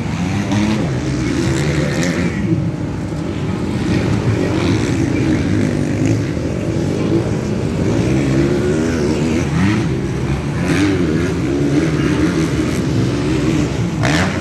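Motocross dirt bike engines racing on a track, several at once, their pitch rising and falling over and over as the riders accelerate and shift.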